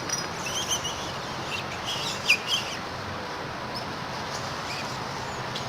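Several short, high-pitched animal chirps in the first three seconds, with a sharp click about two seconds in, over a steady background hiss.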